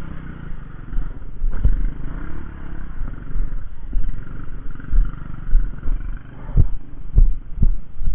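Motorcycle engine revving unevenly as the bike is worked over soft muddy ground, rising and falling, with several heavy low thumps in the last two seconds.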